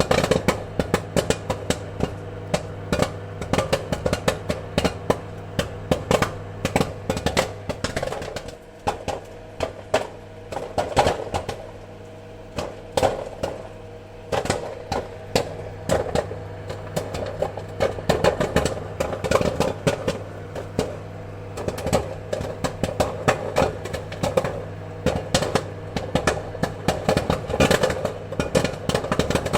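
Popcorn kernels popping in quick, irregular succession, sharp pops coming many times a second, over a steady low hum.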